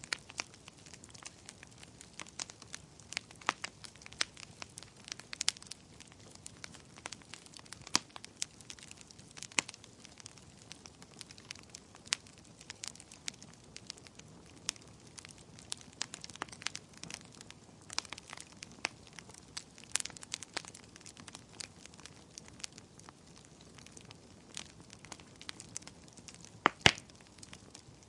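Wood fire crackling and popping with irregular sharp snaps over a low steady hiss; one louder pop comes near the end.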